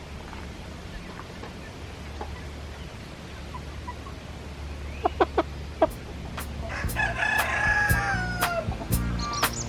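A few short, sharp hen clucks, then a rooster crowing once, a long call that drops in pitch at its end. Music with an even ticking beat comes in near the end.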